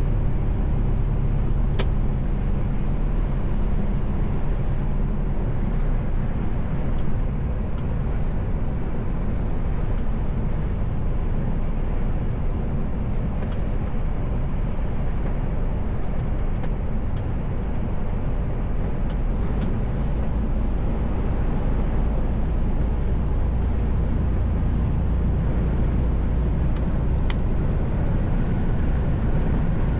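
Steady low engine and road noise inside the cab of a Mercedes Actros L truck on the move, with two brief ticks, one near the start and one near the end.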